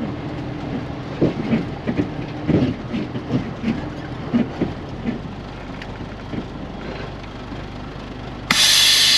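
Diesel semi truck running at low speed with irregular knocks and rattles, then a sudden loud hiss of released air from the air brakes near the end.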